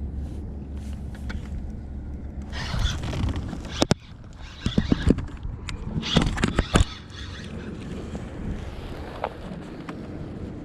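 Wind rumbling on the microphone aboard a kayak, with two short bursts of hissing noise and a cluster of sharp clicks and knocks in the middle.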